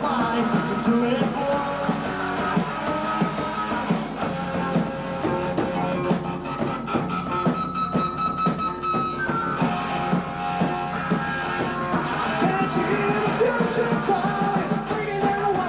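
Post-punk rock band playing live: electric guitars and drums with singing, recorded from the room.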